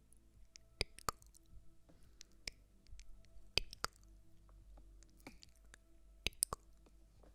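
About a dozen soft, irregular clicks and taps made close to the microphone as ASMR trigger sounds, over a faint steady low hum.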